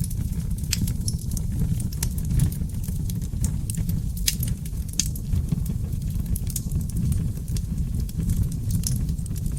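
Wood fire in a fireplace, seasoned oak logs crackling and popping irregularly, several sharp pops a second, over a steady low rumble of the flames.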